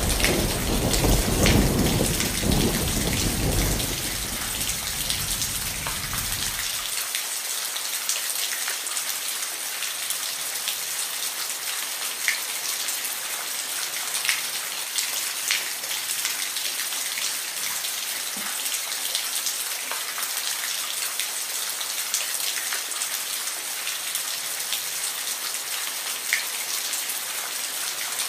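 Steady heavy rain, with a rumble of thunder dying away over the first several seconds; after that only the rain continues, with scattered sharper drips.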